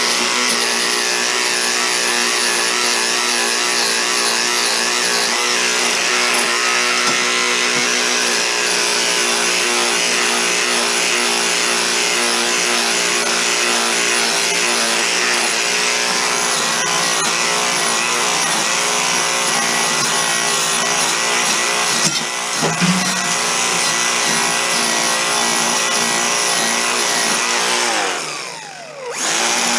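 An electric power tool spinning a polishing wheel, running steadily with a high multi-tone whine. Near the end its speed drops sharply and winds back up.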